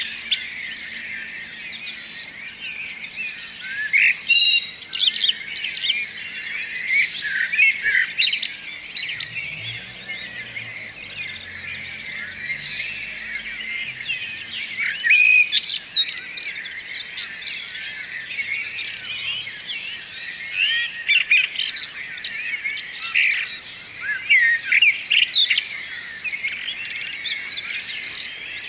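A morning chorus of many songbirds singing together: dense, overlapping chirps and trills, with louder sharp calls standing out now and then.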